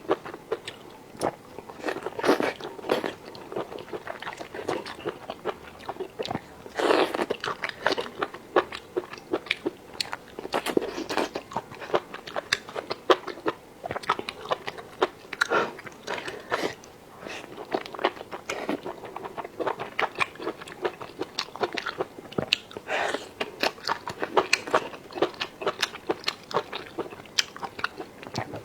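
Close-miked eating: crunchy biting and wet chewing, with many sharp crackles coming in quick irregular clusters.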